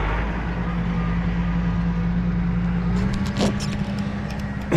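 Farm tractor engine running steadily. Its pitch rises a little about three seconds in as it works, and a few light clanks sound near the end.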